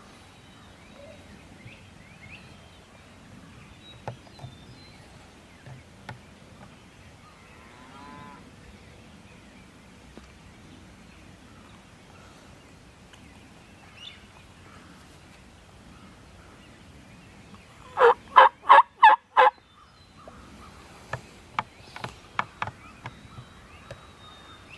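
Wild turkey gobbler gobbling: after a quiet stretch, one loud, rapid rattling gobble of about six notes, followed a moment later by a run of fainter, sharper notes.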